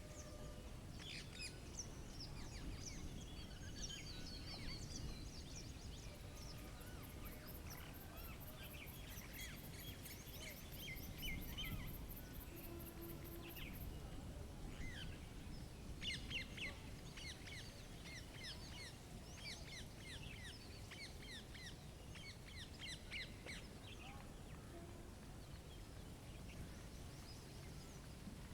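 Small songbirds chirping and calling, many short chirps overlapping, over a low, steady outdoor rumble. For several seconds in the middle, a fast, very high-pitched ticking joins in.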